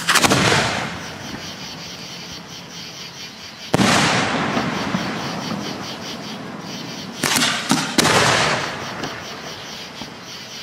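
Aerial firework shells bursting overhead: a loud boom just after the start, another a little under four seconds in, then a quick run of three about seven to eight seconds in. Each boom is followed by a long rolling echo that dies away.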